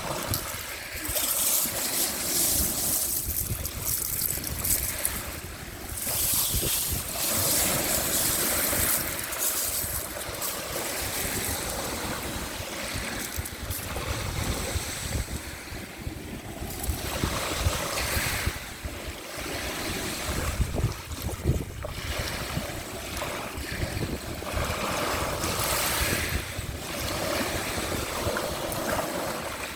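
Waves of the Sea of Azov washing onto the shore, the hiss swelling and fading every few seconds.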